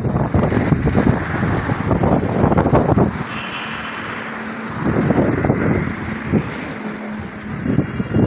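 Wind buffeting the microphone in irregular gusts. It eases about three seconds in, leaving a steady low hum, and gusts again about five seconds in.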